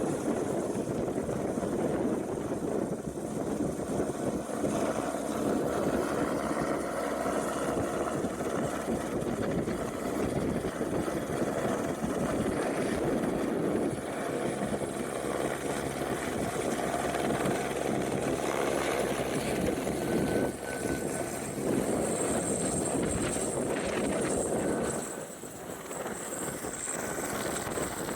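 AS350 single-turbine helicopter running steadily overhead, its rotor and engine noise mixed with gusty wind rushing over the microphone. The sound dips briefly near the end.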